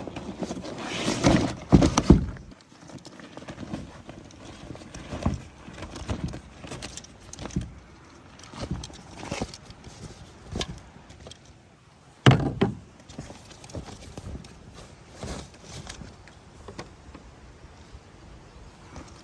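Irregular knocks, clunks and clatters of gear being handled in and around a kayak, with louder thumps about a second in, again at about two seconds, and near twelve seconds.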